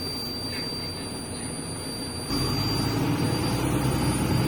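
Interior of a MAZ-105 city bus under way: steady engine and road noise, which step up suddenly about two seconds in to a louder, deeper engine hum.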